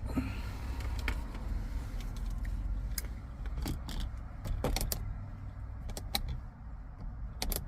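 A car's overhead-console sunglasses holder clicking as it is flipped open and snapped shut by hand on its new latch. There are a number of short, sharp clicks and light knocks, spaced irregularly, over a low rumble.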